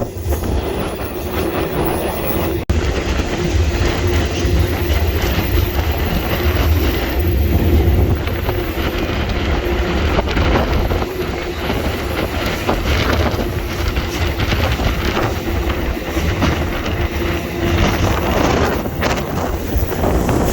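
Freight train rolling along at speed, heard from on board: a steady low rumble of wheels on the rails with irregular clatter from the car. The sound cuts out for an instant about three seconds in.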